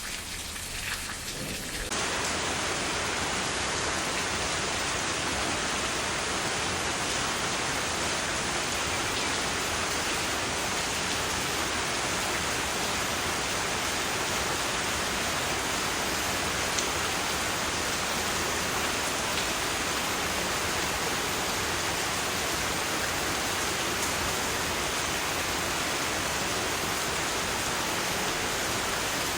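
Rain falling steadily, used as white noise. About two seconds in it changes from lighter, patchier rain to a denser, even hiss like heavy rain or pink noise, which then holds steady.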